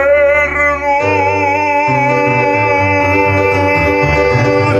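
A man singing the long held final note of a Russian romance on the word 'вернуть', the pitch sliding up into it at the start and then held, over an instrumental accompaniment whose lower chords change about one and two seconds in.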